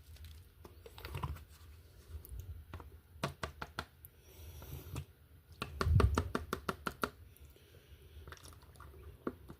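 Runs of quick, irregular light clicks and taps, like small hard objects being handled, about three seconds in and again around six to seven seconds, with a soft low thump near six seconds.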